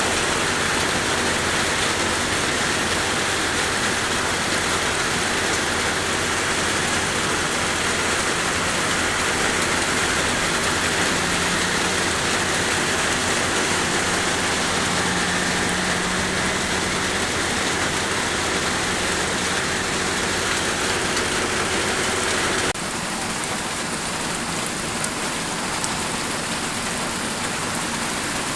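Steady, heavy rain falling and pattering on surfaces, an even hiss with no pauses. About three quarters of the way through it cuts abruptly to slightly quieter rain.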